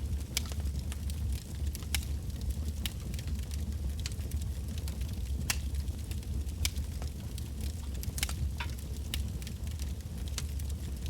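Firewood logs burning in a bonfire: irregular sharp crackles and pops, several a second at times, over a steady low rumble.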